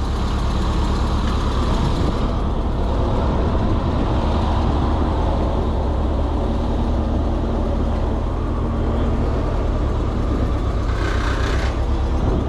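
Heavy tow truck's diesel engine running steadily while it works the lift, with a short hiss about eleven seconds in.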